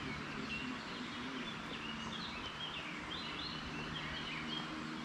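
Several songbirds chirping and calling, many short quick notes overlapping, over a steady outdoor hiss.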